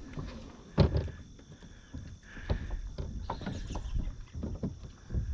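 Irregular knocks and clunks of gear being handled in an aluminum boat, with one loud bang about a second in, over a low wind rumble.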